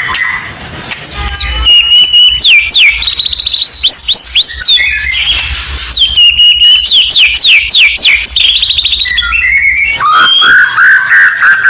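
White-rumped shama (murai batu) song played as a masteran training track: a held whistle followed by fast runs of sweeping whistled notes, sung in two phrases, then a lower rattling trill starting near the end.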